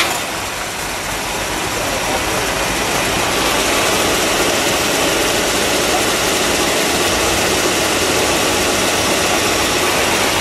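1958 DeSoto Firedome's 361 cubic-inch V8 idling steadily seconds after being started, heard close up under the open hood.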